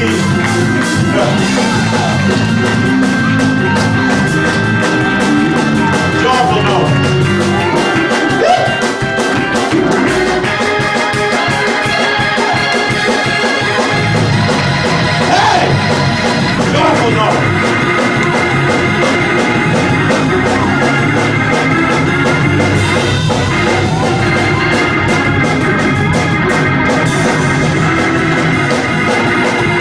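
Loud organ-led church music with a fast, steady beat.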